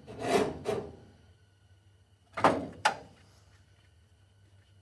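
Handling noise, then two sharp clunks about half a second apart, as tools are picked up and set down while a drill is readied; no drill is running.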